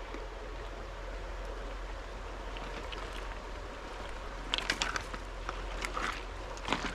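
River water flowing steadily, with a scatter of sharp clicks over the second half.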